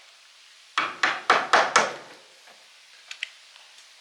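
Five quick hammer blows, about four a second, knocking apart a seized old electric motor, followed by a couple of light taps near the end.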